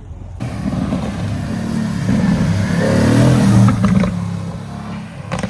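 Porsche 911 Turbo S accelerating hard past on wet pavement. The engine comes in suddenly, swells to its loudest about three seconds in, then fades away.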